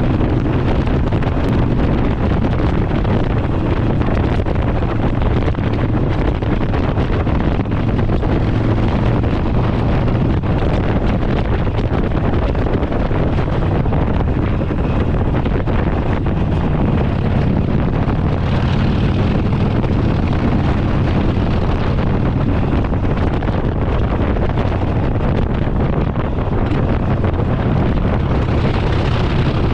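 Harley-Davidson Sportster's V-twin engine running steadily through an aftermarket exhaust while the bike is ridden, with heavy wind noise on the microphone.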